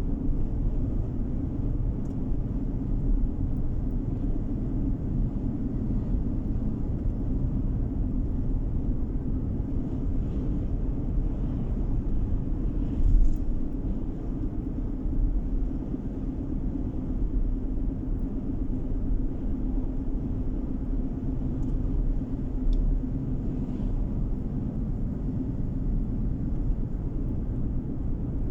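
Steady low rumble of a car on the move: road and engine noise heard from inside the cabin. There is a brief louder bump about 13 seconds in.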